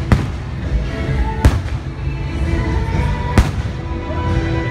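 Aerial fireworks shells bursting: three sharp bangs about one and a half to two seconds apart, the middle one loudest, with music playing underneath.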